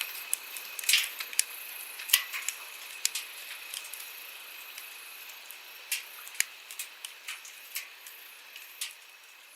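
Wood campfire crackling, with irregular sharp pops, the loudest about one and two seconds in, over a soft steady hiss of flowing stream water. The whole scene fades a little toward the end.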